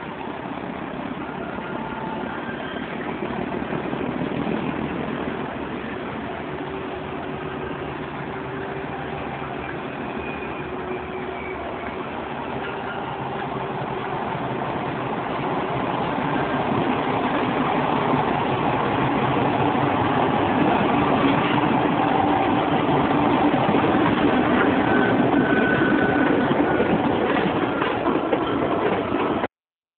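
Diesel locomotive engine working hard as it pulls a commuter train away, growing louder from about halfway through. The sound cuts off abruptly just before the end.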